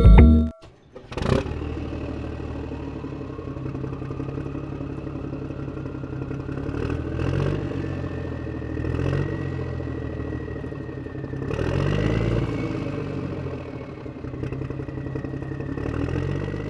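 Tractor engine running steadily from about a second in, revving up briefly several times, with a faint whine that rises in pitch.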